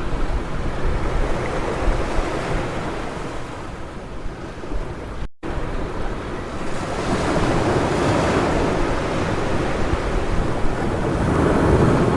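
Ocean surf breaking and washing up a beach in repeated swells, with a heavier wave about seven seconds in and another near the end, and wind rumbling on the microphone. The sound cuts out for an instant about five seconds in.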